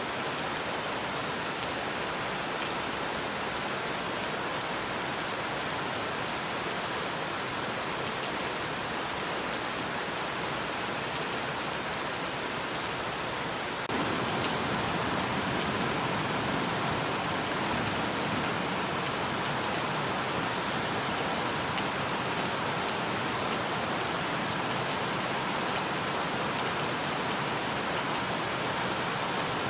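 Steady rain falling, a dense even hiss of many drops. About halfway through it abruptly gets louder and fuller, as if a heavier stretch of rain were spliced in.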